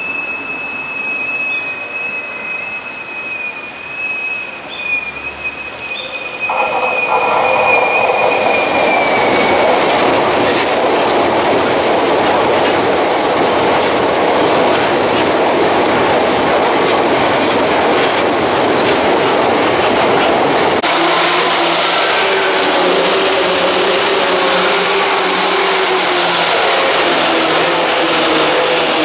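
Electric commuter trains of the Tokyu Den-en-toshi Line passing close by. A high whine slowly falls in pitch as the first train approaches. About six seconds in, the noise of its wheels running over the rails grows much louder as it passes. Later, the sound changes abruptly to another train passing, with a lower steady motor hum.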